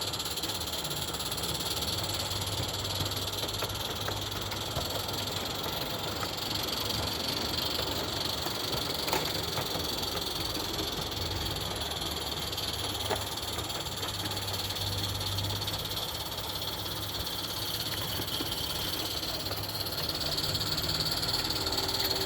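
Roundhouse Lady Anne live-steam model locomotive running with its train: a steady hiss over a low hum, with a couple of sharp clicks in the middle.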